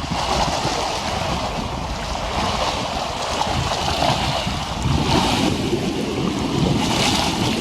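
Small waves lapping against the harbour foreshore, washing up several times, with wind buffeting a pocket camera's foam-covered microphone underneath as a low, irregular rumble.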